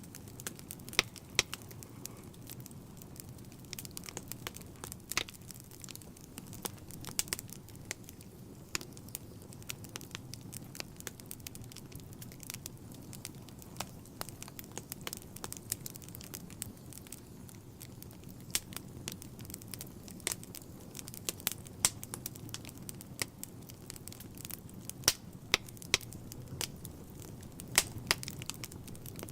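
Wood fire burning in a fireplace: a steady low rumble of flames with irregular sharp crackles and pops from the burning logs, a few of them much louder than the rest.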